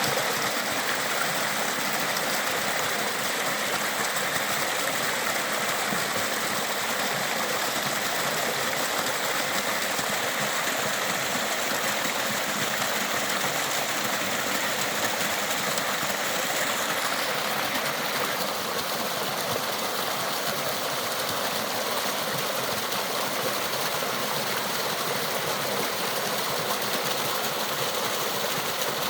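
Water of a small waterfall and rill rushing and splashing steadily, its tone shifting slightly about two-thirds of the way through.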